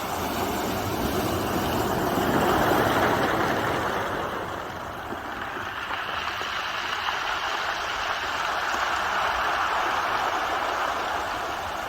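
Ocean waves washing onto the shore, a continuous rush of surf that swells about three seconds in and again near ten seconds.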